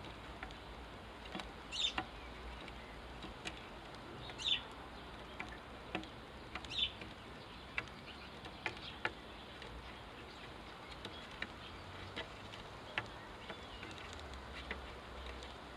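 House sparrows chirping: three short chirps a few seconds apart, with scattered sharp ticks throughout.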